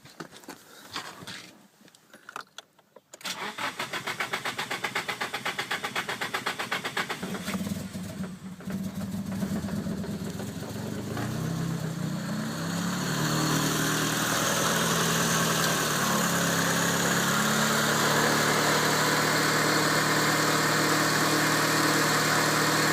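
Car engine being cranked by the starter for about four seconds after a few faint clicks. It catches around eight seconds in and runs unevenly, its pitch wavering, then settles into a steady idle, all part of the hard-starting problem the car is being filmed for.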